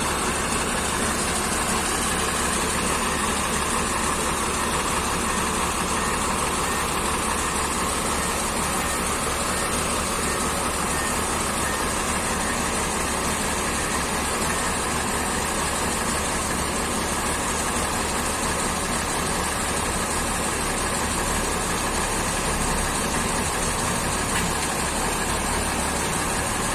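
Forklift engine running steadily at idle, an even mechanical hum with no change in speed.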